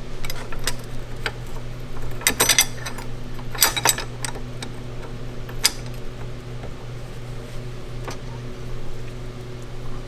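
Metal parts and hand tools clinking in a few short clusters during Showa fork damper disassembly, over a steady low hum.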